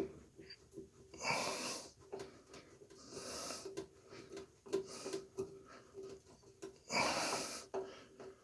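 A person breathing wheezily close to the microphone, three breaths, with faint clicks and taps of small parts being handled between them.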